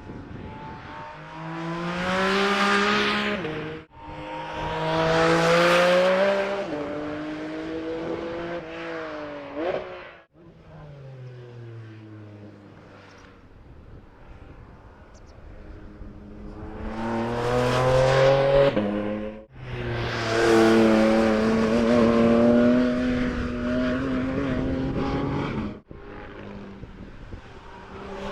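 Porsche 718 Cayman GT4 RS's naturally aspirated 4.0-litre flat-six revving hard under acceleration, in several pulls whose pitch climbs. Abrupt breaks come about four seconds in, near ten seconds, near twenty seconds and near twenty-six seconds, with a stretch of lower, falling engine note after the second break.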